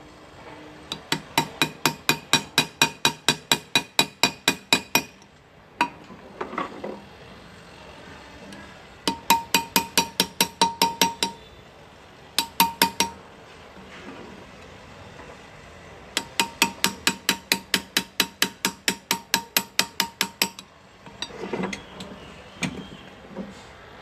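Hand engraving: a small hammer tapping a graver into a metal part in steady runs of about four or five strikes a second, each with a short metallic ring. The runs stop and start, with a few loose knocks between them.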